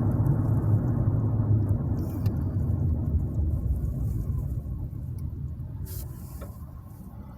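Low engine rumble that slowly fades over several seconds.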